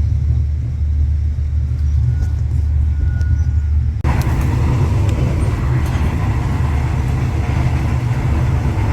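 Steady low rumble of a moving vehicle. About four seconds in it changes abruptly to a louder, hissier running noise.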